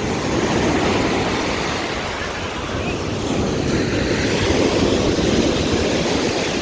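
Ocean surf breaking and washing in, rising and falling in slow swells, with wind rumbling on the microphone.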